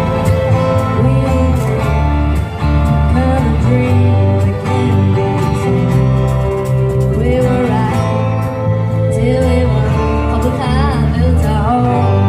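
Live band music with a singer over a heavy bass line; held notes waver in pitch.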